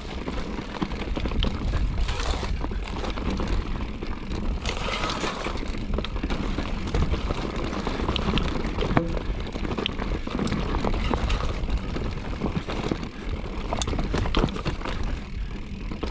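Mountain bike ridden over a rocky trail: a steady wind rumble on the microphone with scattered clicks and rattles from the tyres and bike.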